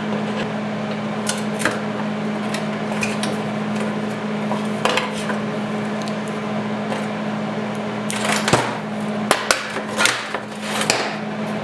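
A steady electric motor hum that cuts off just before the end, with metal parts clinking and tapping over it, the taps coming thicker in the last few seconds.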